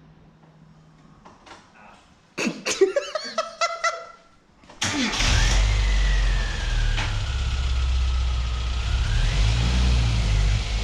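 A classic Mini engine being started: a couple of seconds of starter cranking with clicks, then the engine catches about five seconds in and runs steadily.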